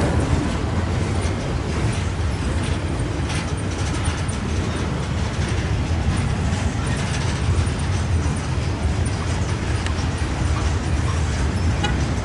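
Freight train cars rolling along the track: a steady low rumble of steel wheels on rail, with a few faint clicks scattered through it.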